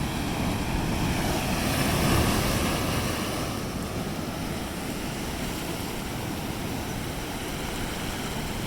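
Ocean surf breaking on a beach: a steady wash of noise that swells about two seconds in as a wave comes in, then eases.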